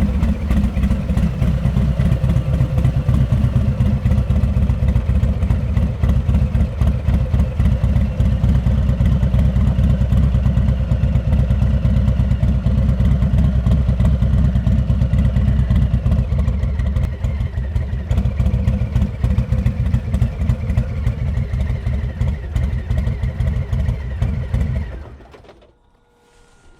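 Harley-Davidson Heritage Classic 114's Milwaukee-Eight V-twin running steadily through a Rinehart exhaust. The engine sound dies away quickly near the end.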